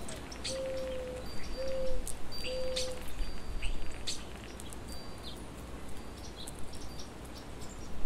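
Wild birds calling: scattered sharp chips and short, high whistled notes. A low call of a few even notes sounds in the first three seconds.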